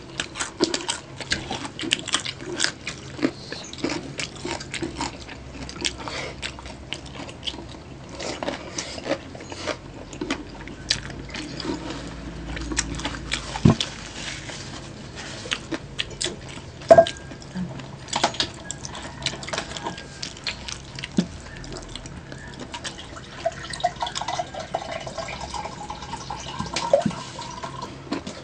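Close-miked eating sounds: wet chewing and lip smacking with many small sharp clicks as two people eat rice and laing by hand. A few louder knocks stand out, the loudest a little past the middle.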